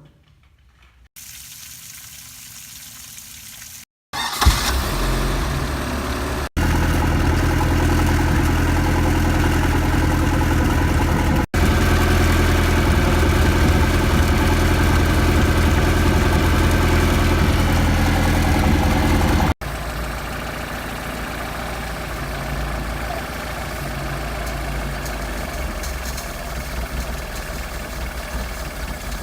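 Mercruiser 3.0 inline four-cylinder sterndrive engine starting about four seconds in, then running steadily at idle. The sound cuts off and resumes abruptly several times at slightly different levels.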